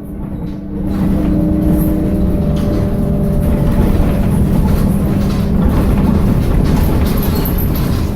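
Interior of a BKM-221 trolleybus in motion: steady rumble and rattling from the body and running gear, with a steady electric hum from the traction drive. Higher humming tones fade out about three to four seconds in, and the noise grows louder about a second in.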